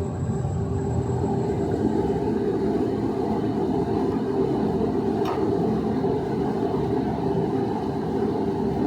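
A motor running steadily: a low, even hum with one steady tone in it.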